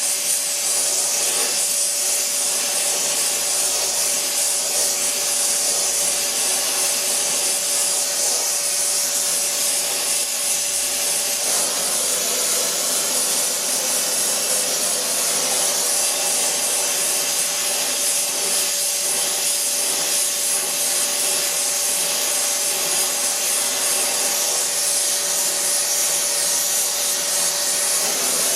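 Gas torch flame hissing steadily as it heats a seized broken stud to free it.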